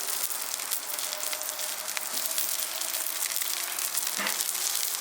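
Food frying in a hot skillet over a charcoal grill: a steady sizzling hiss full of fine crackling, with a few sharper pops.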